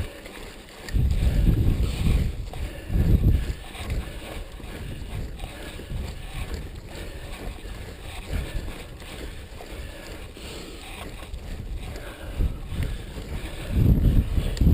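Wind buffeting the microphone in heavy gusts about a second in and again near the end, over the steady rattle and tyre noise of a mountain bike riding a dirt trail.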